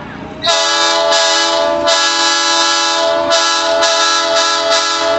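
Train horn sounding a chord of several tones in a series of blasts: two short ones, a long one, then a quick run of short toots.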